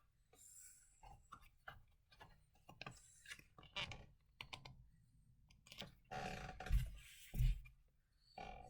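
Faint clicks and rustles of a picture book being handled and a page turned, with two dull thumps near the end.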